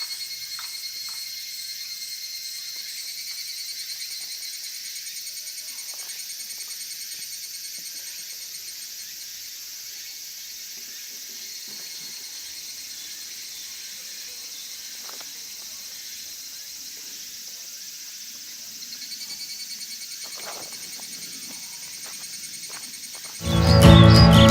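Insects calling in a steady high-pitched trill with rapid pulsing, with a few faint ticks. Music comes in loudly near the end.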